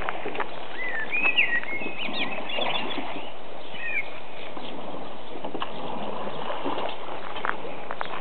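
A small bird singing short chirping phrases, about a second in and again near four seconds, over a steady background hiss with scattered light knocks and rustles.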